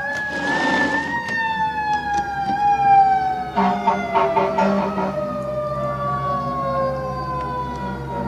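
Fire truck siren winding up to a peak about a second in, then a long, slowly falling wail. Short noisy bursts break in near the start and again around the middle, over a steady low engine hum.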